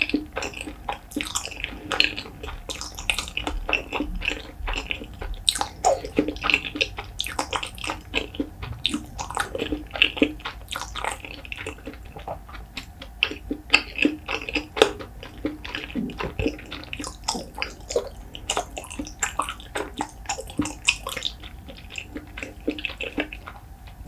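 Close-miked chewing of a mouthful of rice and salted pollock roe (myeongnan-jeot): a steady run of wet mouth clicks and smacks, several a second.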